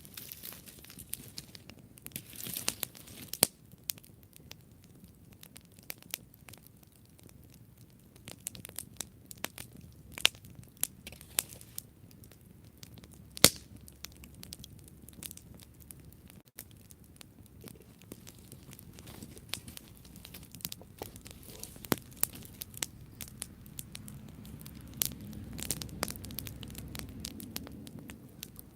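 Wood campfire burning, with sharp irregular crackles and pops, a few of them loud, over a low rush of flame that grows near the end.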